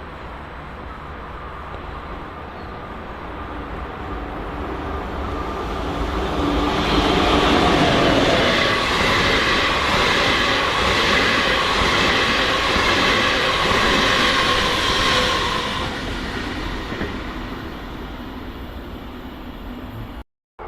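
A train passing on the track: it grows louder, stays at its loudest for about eight seconds with a high steady whine over the rolling wheels, then fades, and the sound cuts off suddenly near the end.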